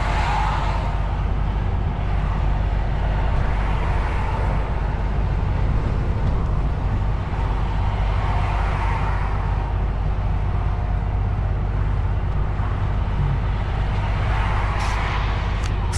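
DAF XF truck driving along: steady low engine drone and road noise, with a hiss that swells a few times. A few faint clicks near the end.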